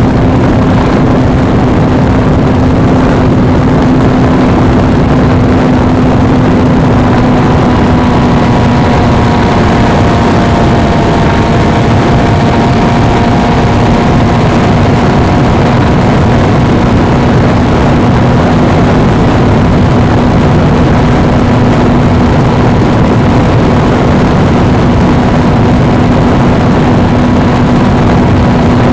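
Suzuki V-Strom 250 motorcycle's parallel-twin engine running at a steady cruising speed, a constant drone that holds one pitch, under loud, steady wind noise on the microphone.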